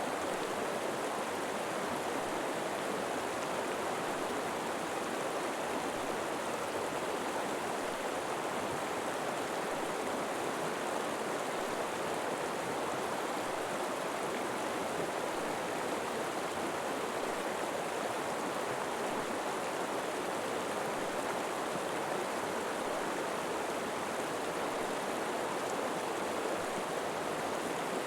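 River water flowing over rocks, a steady even rush with no breaks or single events.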